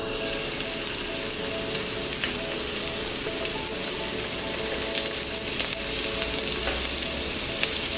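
Chopped chilies, ginger and garlic sizzling steadily in hot oil in a wok as they hit the pan, with a spatula scraping them in and pushing them around.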